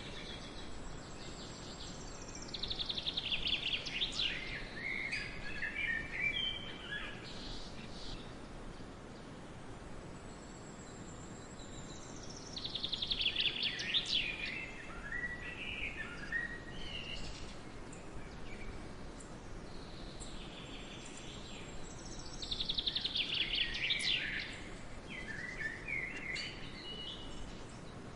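A songbird singing the same song three times, about ten seconds apart. Each song opens with a fast high trill and breaks into quick jumbled notes that fall in pitch, over a steady forest hiss.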